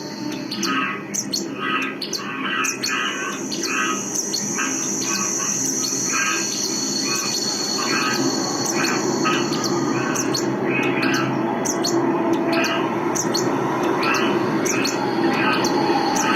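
Field-recorded bird chirps repeating in quick short calls, about two or three a second, layered over a steady high insect-like drone and a dense low rumbling texture in a live electronic improvisation.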